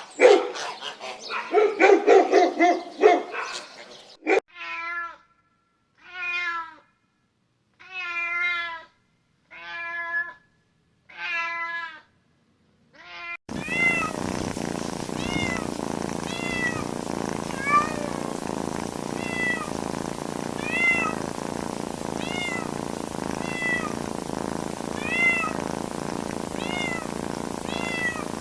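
Cats meowing. After a loud jumble of animal calls in the first four seconds come five separate drawn-out meows about two seconds apart, then a string of short, high mews about every second and a half over a steady hiss.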